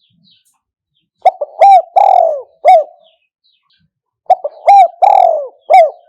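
Spotted dove cooing: two loud call phrases about three seconds apart, each a few short coos and one longer drawn-out coo.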